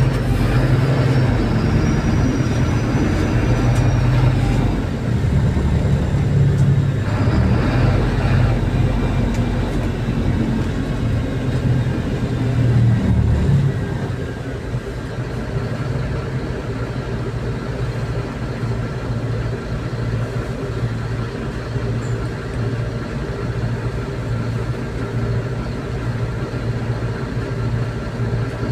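MAZ-203 city bus heard from inside the passenger cabin while riding: steady low engine hum with road and body noise. A faint high whine rises and falls over the first few seconds. The sound eases a little about halfway through.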